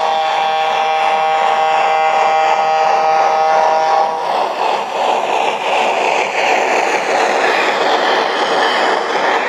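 Sound-equipped model of a Southern Pacific AC-12 cab-forward steam locomotive blowing a chime whistle for about four seconds, the chord cutting off sharply, followed by steady steam exhaust and hiss.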